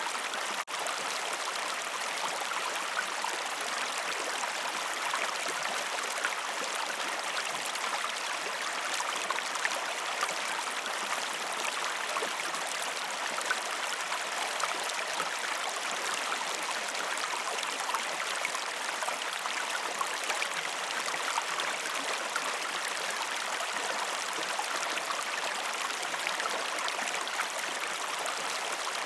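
Waterfall: falling water rushing steadily, with a momentary break less than a second in.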